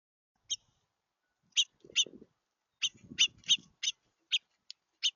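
Small songbirds giving a series of short, sharp chirps, about ten, coming quicker after the first couple of seconds.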